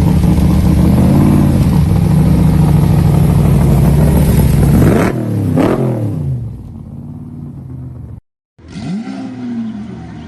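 Supercar engine running loud at steady high revs for about five seconds, then its pitch drops sharply with a quick rise and fall, and it quietens. After a brief cut near the end, another short rev rises and falls.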